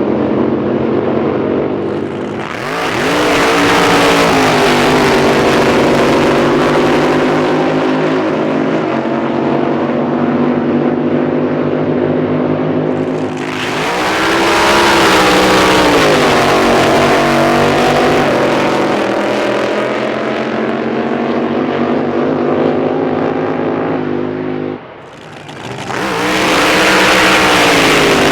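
Drag boat racing engines running loud, with three surges of full-throttle noise about 2, 13 and 26 seconds in, each rising in pitch and then falling as a boat runs past. A steadier engine hum carries on underneath.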